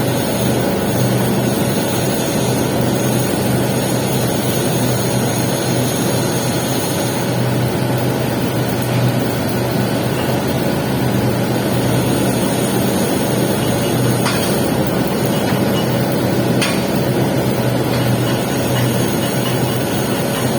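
Welding arc running steadily on the capping pass of a 6G pipe joint: an even hiss over a low machine hum.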